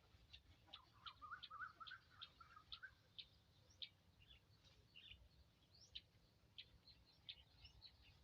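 Faint chirping of small birds: many short, high chirps scattered through, with a quick run of lower warbling notes about a second in.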